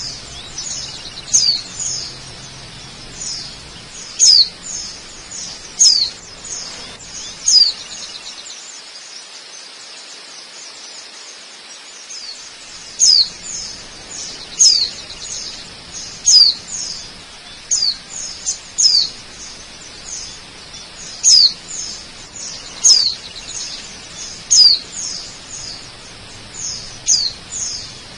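A bird calling over and over with sharp, high chirps that sweep downward, some in quick pairs, pausing for a few seconds near the middle. Beneath them runs the steady rush of a waterfall.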